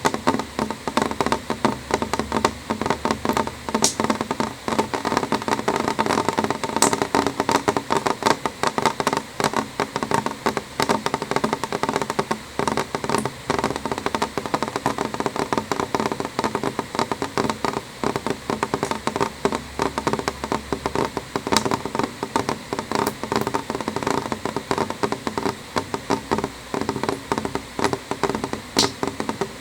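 Rain falling on a window pane: a steady, dense run of small drop taps on the glass, with a few sharper, brighter ticks standing out now and then.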